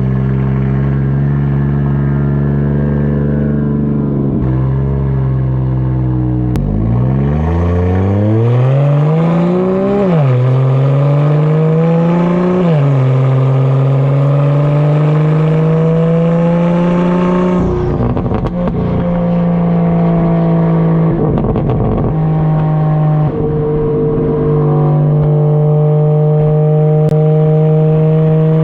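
BMW 335i's big single-turbo N54 inline-six with a catless downpipe, running loud. The revs climb hard and drop back twice, as at upshifts, then settle into a steady drone. There is a rougher, crackly patch about two-thirds of the way through.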